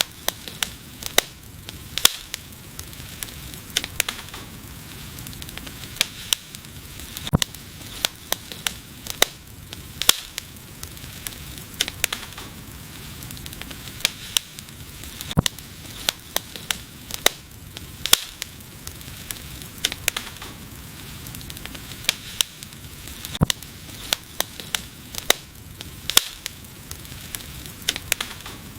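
Wood fire burning, with irregular sharp crackles and pops several times a second over a steady low hiss of the flames.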